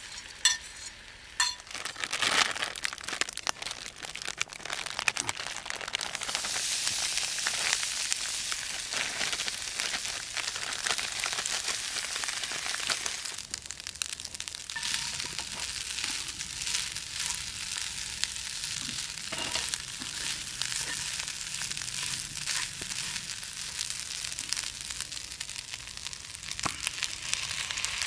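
Food sizzling in a pan over a campfire: a steady frying hiss dotted with many small crackles, growing louder about six seconds in.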